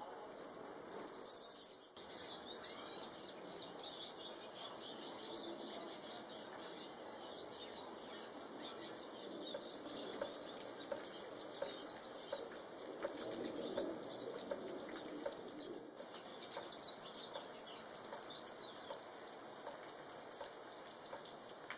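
American goldfinches chirping and twittering in quick, scattered high notes, with occasional wing flutters, over a faint steady hiss of water.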